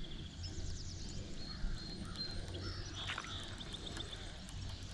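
Birds chirping and calling, with short repeated calls and one falling call about three seconds in, over a steady low rumble.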